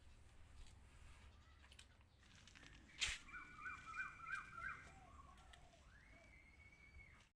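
Faint bird calls: a run of about five short rising notes, about three a second, followed near the end by one longer held note. A single sharp click comes just before the calls.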